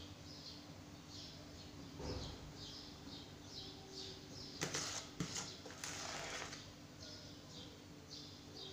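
A small bird chirps steadily in the background, short high chirps about twice a second. About halfway through, a metal spoon clatters and scrapes against a bowl for a couple of seconds while thick meringue is scooped out.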